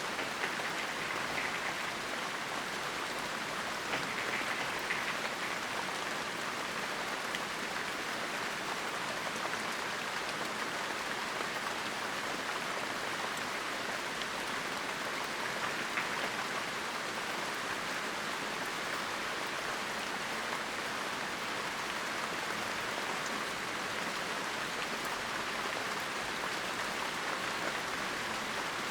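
Steady rainfall, an even hiss of falling rain with scattered small drop ticks.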